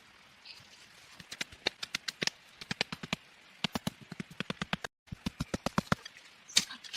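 Rapid series of sharp knocks, several a second, in uneven runs with short pauses between them.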